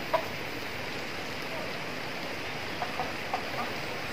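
Steady rain falling on leaves and wet ground, with a few short clucks from chickens: one near the start and a quick cluster of three or four about three seconds in.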